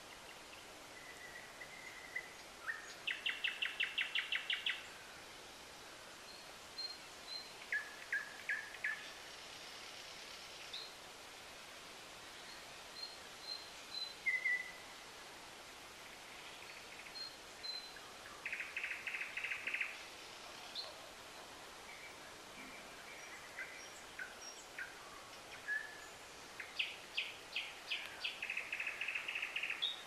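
Birdsong: phrases of rapid, evenly repeated notes, each lasting a second or two, separated by pauses of several seconds with a few short single high notes between them, over a faint steady hiss.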